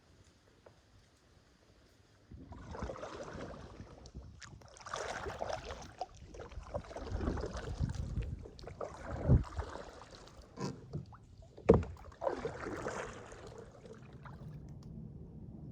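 Kayak paddling: paddle blades swishing and splashing through the water in repeated strokes, starting about two seconds in, with a few sharp knocks.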